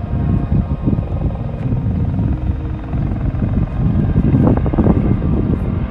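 Sightseeing helicopter in flight, coming in to land: a steady low rumble.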